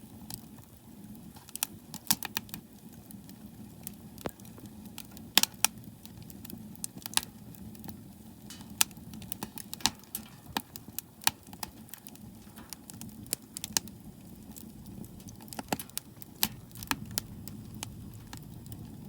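Firewood crackling and popping as it burns in a wood stove: sharp cracks at irregular intervals over a low, steady rumble.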